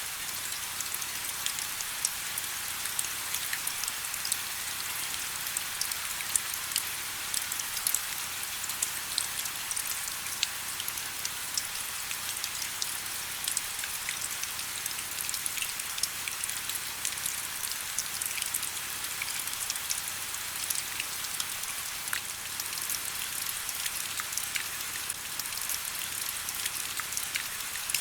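Steady rain, with many separate drops ticking sharply over an even hiss.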